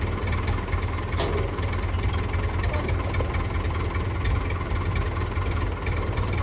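Massey Ferguson 165 tractor engine running steadily at low speed, with a short clack about a second in.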